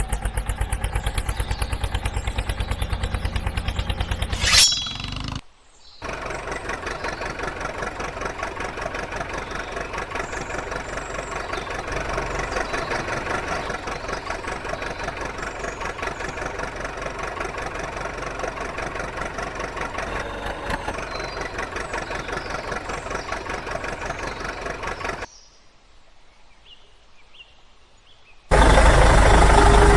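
Engine running with a fast, even chugging pulse, in several cut segments: a sharp bang about four and a half seconds in, a brief drop-out, a long stretch of steady chugging, a few quieter seconds near the end, then a much louder engine sound.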